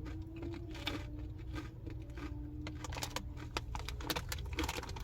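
Crunchy snacks being eaten close to the microphone, with the crackle of their wrappers being handled: a quick run of small crunches and clicks over a steady low hum.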